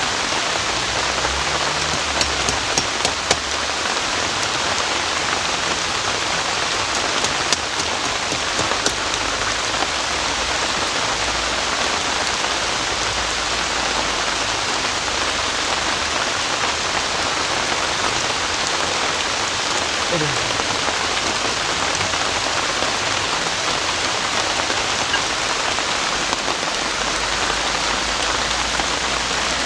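Heavy rain falling steadily, with a few sharper drop ticks in the first ten seconds.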